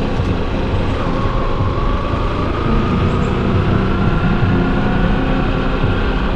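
Motorcycle running on the road while riding, with steady road and wind noise. A faint whine rises slowly in pitch over a few seconds.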